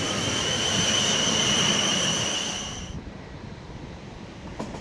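A South Western Railway electric multiple unit running past on the rails, a steady high whine over the wheel and rail rumble. It cuts off sharply about three seconds in, leaving quieter station background with a faint distant train.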